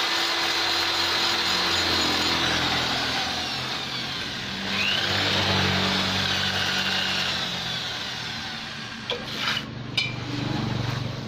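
Rotary grinder with a burr bit grinding metal while shaping a Vespa's ports, the motor pitch shifting as it bears on the work. A few sharp clicks near the end.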